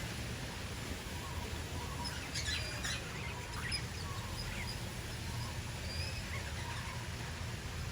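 Small aviary birds chirping and calling in short, scattered high notes, with a quick cluster of calls about two to three seconds in, over a low steady rumble.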